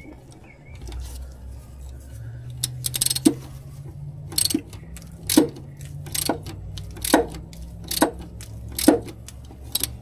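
Hose clamp on a fuel tank vent hose being tightened with a hand tool: a short run of clicks, then sharp metallic clicks at a steady pace of about one a second, over a steady low hum.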